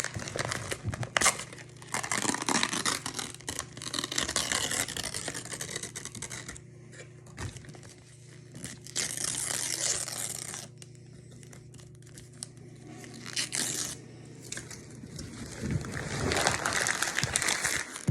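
Crinkling and tearing noises in irregular bursts, as of something being crumpled and torn by hand, over a steady low hum that stops about three-quarters of the way through.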